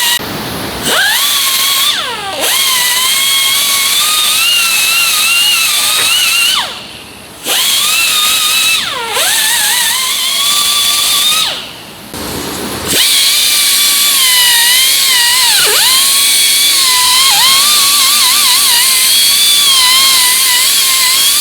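Air-powered chamfer tool with a bevel bit spinning with a loud air hiss and a high whine that dips in pitch each time it bites into the drilled holes in welded steel tubing. It runs in three stretches, stopping briefly about 7 and 12 seconds in.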